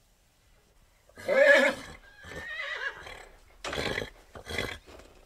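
Horse whinnying: one loud call starting about a second in, followed by a string of shorter, noisier pulses.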